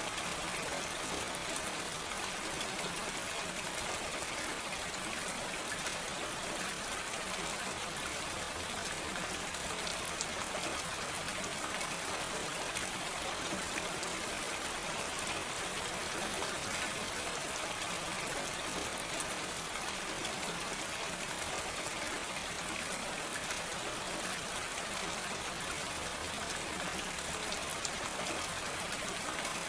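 Steady gentle rain with no thunder: an even hiss of falling drops with faint fine patter.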